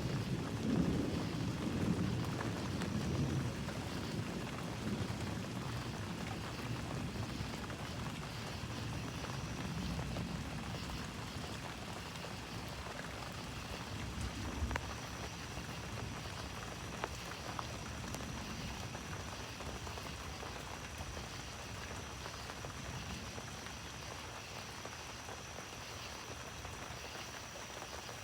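Steady rain falling during a thunderstorm, with a low rumble of thunder in the first few seconds that dies away.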